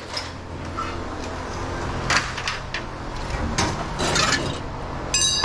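Pieces of scrap metal clattering as they are handled and tossed, with several sharp knocks and a bright ringing clang near the end, over a steady low hum.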